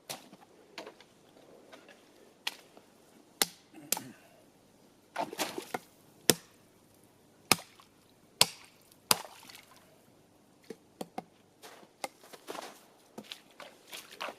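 Wood being chopped: a dozen or so irregular sharp chopping knocks, some coming in quick clusters, the loudest about halfway through.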